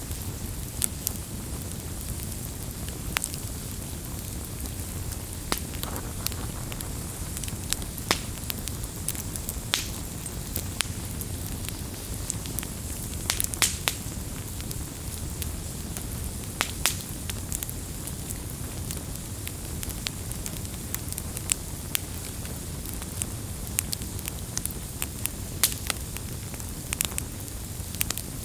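Wood fire burning with a steady low rumble and frequent irregular crackles and pops, a few of them sharper and louder.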